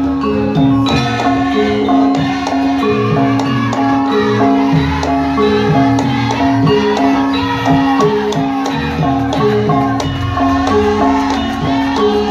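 Javanese gamelan ensemble playing: struck metal instruments ring out notes in a steady repeating pattern, with sharp drum strokes on top.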